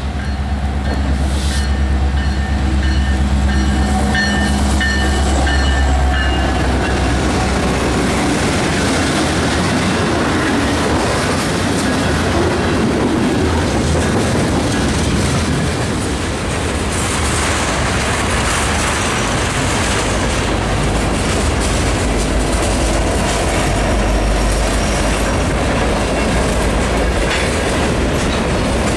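Diesel freight train passing close: for the first six seconds or so, the deep rumble of the locomotives' engines with a few steady tones. Then the cars roll by in a continuous rumble of steel wheels on rail, with rapid clicks of wheels over rail joints.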